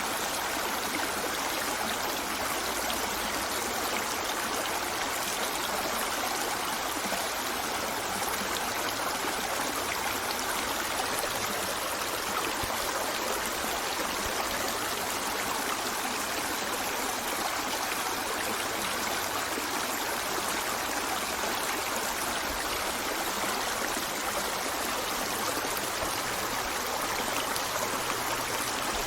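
River water flowing steadily over stones, an even rushing and burbling with no let-up.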